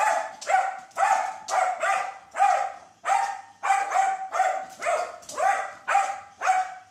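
A dog barking over and over at a steady pace, about two barks a second, each bark at much the same pitch.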